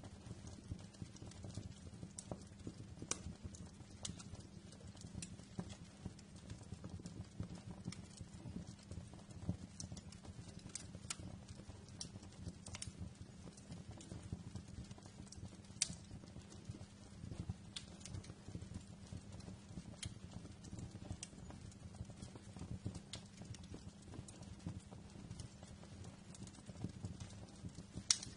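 Wood fire crackling in a fireplace: irregular sharp pops and snaps over a low, steady rumble of the flames, with one louder pop near the end.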